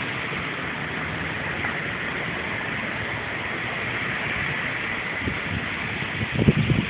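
Hurricane-force wind blowing as a steady rushing hiss, with a few low gusty thumps near the end.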